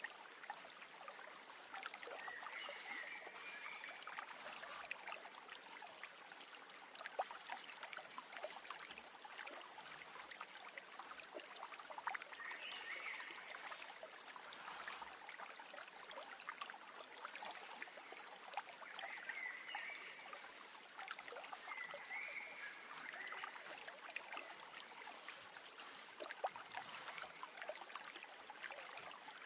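Running stream water trickling steadily, with short bird chirps four times over it.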